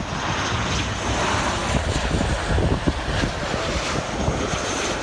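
Jet airliner engine noise, a steady loud rush, mixed with wind buffeting the microphone.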